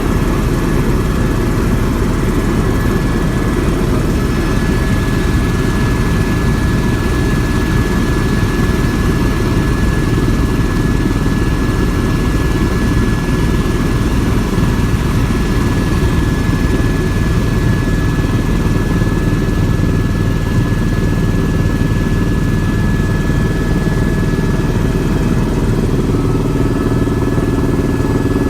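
Helicopter in flight heard from inside the cabin: a loud, steady rotor and engine drone with a thin high whine held throughout.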